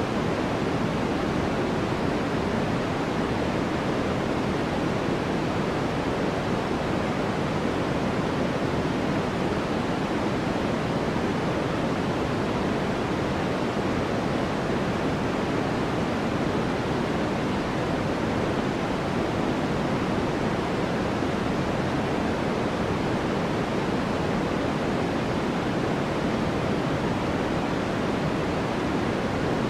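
Steady white-noise track: an even, unchanging hiss weighted toward the lower tones.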